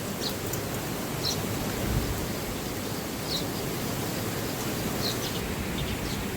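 Steady rushing outdoor noise, with a few short high bird chirps scattered through it and a low thump about two seconds in.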